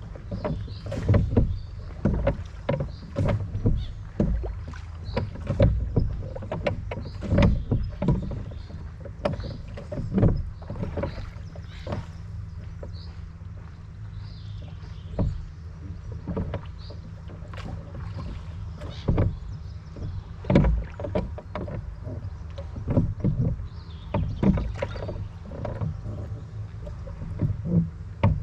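Oars of a rowboat dipping and splashing in a river, with irregular knocks and splashes every second or two over a steady low rumble. Small birds chirp faintly in the background.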